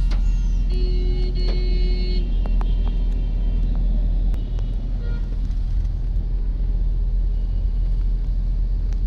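Steady low rumble of a motor vehicle in road traffic. A high steady tone sounds briefly about a second in, with scattered short clicks and knocks.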